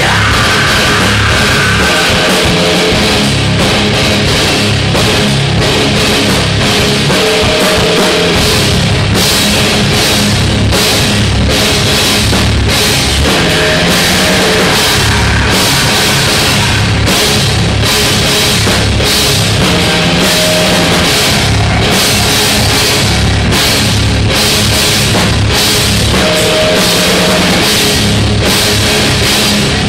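Live heavy rock band playing an instrumental passage, with distorted guitars, bass and a driving drum kit with cymbals, loud and dense throughout.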